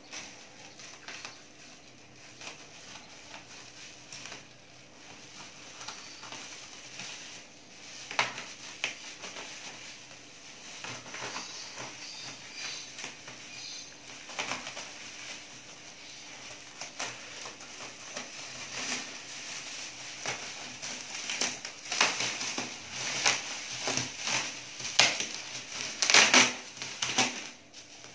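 A shipping parcel being torn open by hand: packaging crinkling and rustling, with scattered sharp clicks and knocks that grow busier and louder over the last several seconds.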